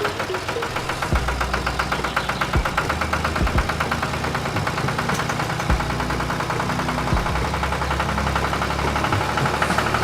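A small engine running with a fast, even knocking rhythm.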